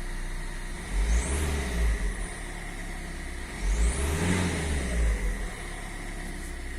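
Renault Scenic II's 1.5 dCi K9K 732 four-cylinder turbodiesel idling and revved twice, about a second in and again near four seconds, each blip lasting about a second and a half before dropping back to idle.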